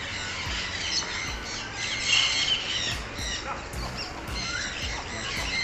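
Many aviary birds calling at once: a dense, overlapping chorus of chirps, whistles and squawks.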